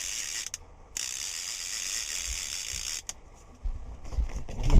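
Fishing reel's line clicker ratcheting rapidly as a hooked catfish pulls line out after a strike, pausing briefly about half a second in and stopping about three seconds in. Low thumps follow, the loudest near the end.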